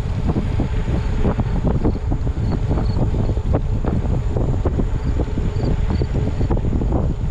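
Steady wind buffeting the microphone of a moving bicycle, a heavy low rush with irregular gusts.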